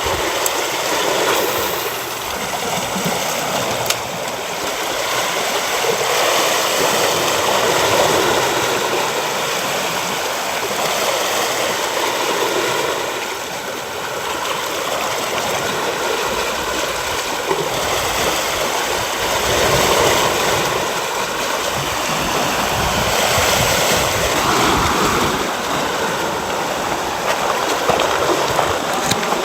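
Sea water rushing and churning, with a steady rush that swells and eases every few seconds.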